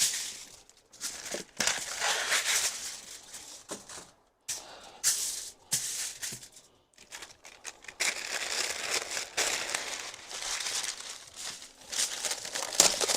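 Kitchen aluminium foil crinkling and rustling in irregular bursts as it is handled and laid out in sheets.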